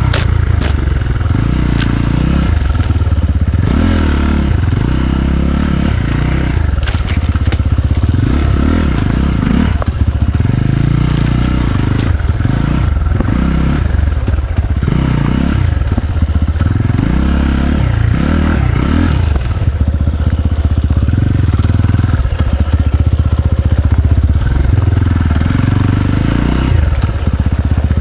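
Enduro dirt bike engine running under way, the throttle opening and closing again and again in surges, with occasional clatter and scraping over rough ground.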